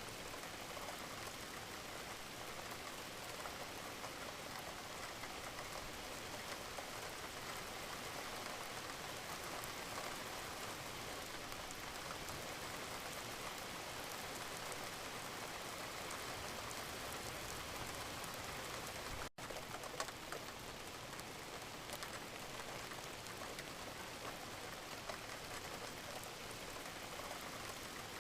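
Steady, gentle rain falling, an even patter of many drops, with a momentary dropout about two-thirds of the way through.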